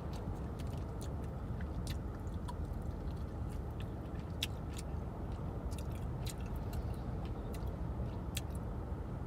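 A person chewing a fried chicken wing with the mouth close to the microphone, with many small wet clicks and smacks scattered through, over a steady low hum.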